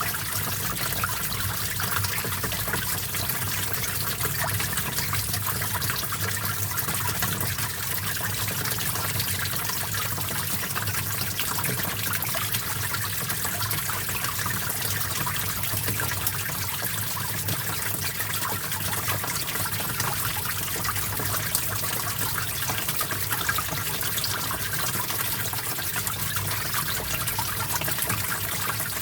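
Small stream of water trickling and flowing steadily over rocks, an even splashing rush with no pauses.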